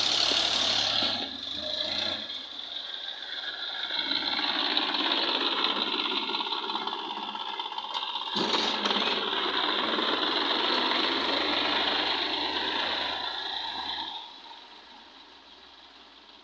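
Tafe 5450 DI Maha Mahaan tractor's three-cylinder diesel engine running with a rattle, stopping about fourteen seconds in, with a sharp knock about halfway through.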